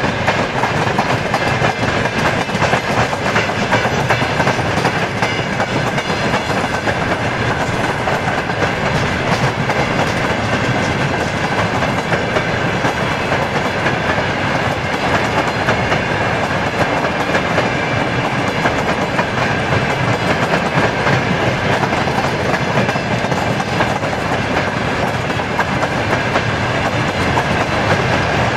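Empty covered hopper wagons of a freight train rolling past, steel wheels clattering over the rail joints in a steady, continuous stream, with a faint steady high ring above the rumble.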